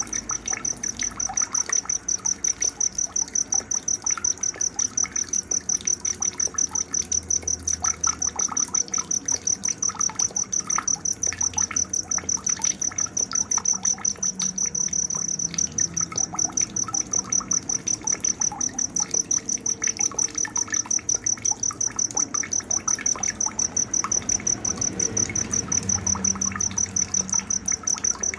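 A cricket chirps steadily at a high pitch, about three to four pulses a second, over scattered short bird chirps and a faint trickle of water.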